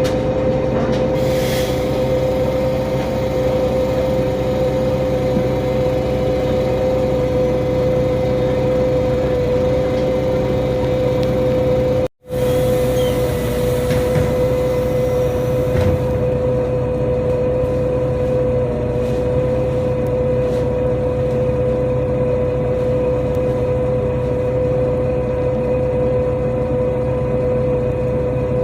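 NefAZ-5299 city bus running, heard from inside the cabin: a steady drone with a constant high whine over it. The sound cuts out for an instant about twelve seconds in.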